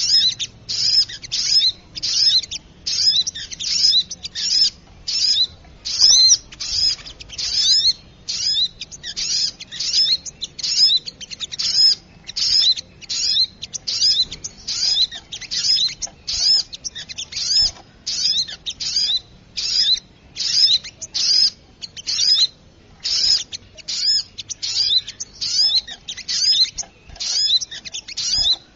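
Bird-lure recording of small birds calling: high, rapid chattering calls with curved whistled notes, repeated about twice a second without a break, meant to draw in small birds such as the sogok ontong.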